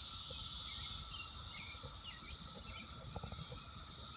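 Loud, steady chorus of Brood X periodical cicadas singing en masse, a dense unbroken high buzz with a lower steady drone beneath it.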